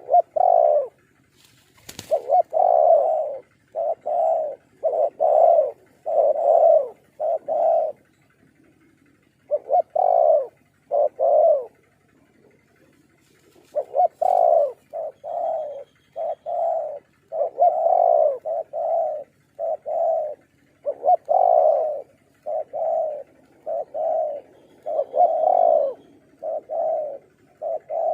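Spotted dove cooing over and over, a run of short low coo notes in phrases with brief pauses between. A sharp click sounds about two seconds in.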